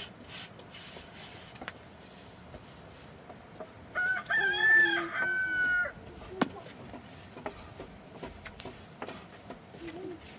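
A rooster crowing once, a single call of about two seconds near the middle, followed by a short sharp click.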